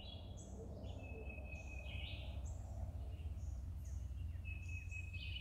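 Small birds chirping in short, high calls, several in quick succession and then again about every second, over a steady low rumble.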